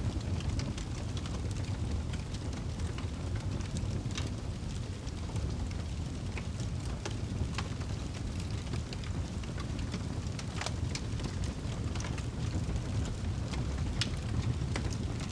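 Wood fire burning in a fireplace: a steady low roar of flames with frequent sharp crackles and pops scattered irregularly throughout.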